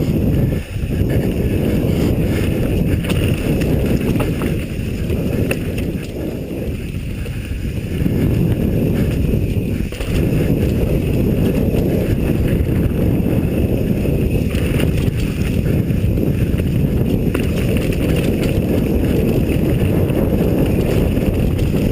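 Wind buffeting the microphone during a fast mountain-bike descent, a loud, steady rumble with scattered clicks and rattles from the bike on rough ground.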